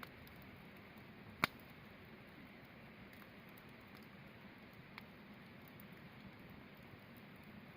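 Campfire wood burning, a faint steady hiss with sparse crackles: one sharp pop about a second and a half in and a smaller one about five seconds in.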